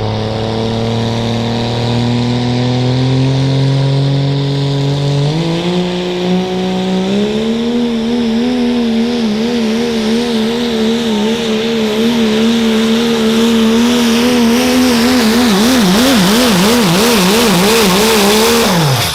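Diesel pickup truck engine under full load pulling a sled, its pitch stepping up twice in the first seven seconds as it climbs through the gears, then held high. In the last few seconds the pitch wavers rapidly up and down, and it drops off abruptly at the very end as the throttle is released.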